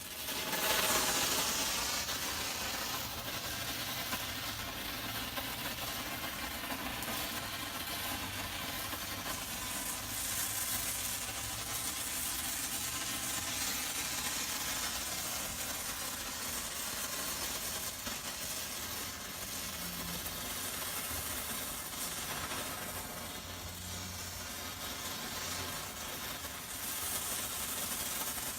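Homemade flare/waterfall tube of potassium nitrate, aluminium and sulfur with magnesium chips burning: it catches suddenly and then hisses steadily and evenly as it throws sparks.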